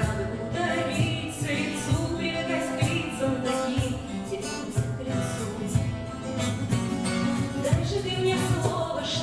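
A small band playing a song live, with a sung vocal line over instrumental accompaniment and a steady beat.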